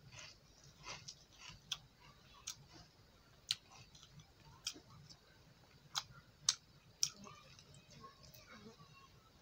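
Close-miked eating: quiet chewing broken by several sharp, irregularly spaced mouth clicks and lip smacks.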